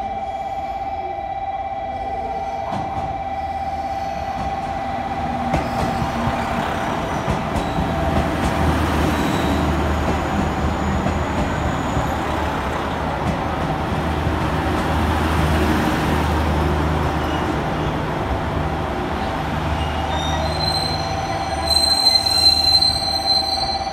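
Diesel railcar of the Sea Side Liner pulling into a station platform: its engine rumble and wheel-on-rail noise grow louder as it runs past, with a few clicks of wheels over rail joints. Near the end a high brake squeal rings out as it comes to a stop, over a steady hum heard throughout.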